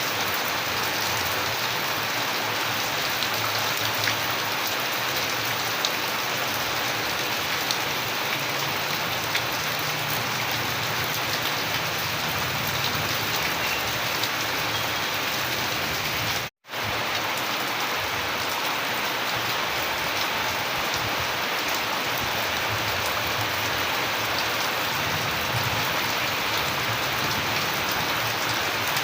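Steady, heavy rain falling, with individual drops ticking through the hiss. About halfway through, the sound cuts out completely for a split second and then resumes.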